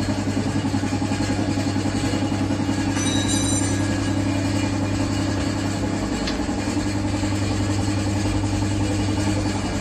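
Kawasaki Ninja 1000SX's inline-four engine idling steadily through a newly fitted exhaust, with an even rapid pulse. A brief thin high whistle sounds about three seconds in.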